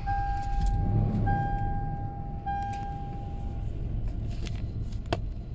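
Toyota Land Cruiser engine starting, catching in the first second and settling to a steady idle. Over it a warning chime sounds in long, even beeps, stopping a little over halfway through. A sharp click comes near the end.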